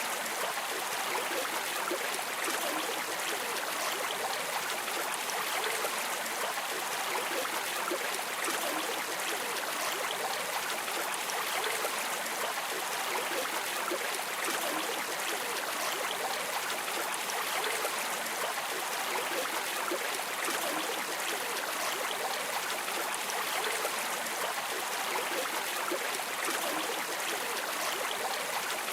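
Stream water flowing steadily, an even rushing and babbling.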